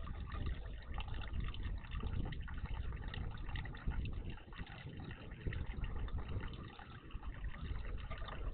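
Steady water running and splashing at a garden bird bath, a continuous gurgling with no distinct bird calls.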